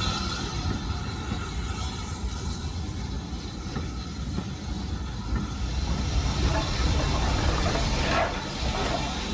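Steam train running on the line, a steady low rumble of the train on the track, with a brief swell of higher noise near the end.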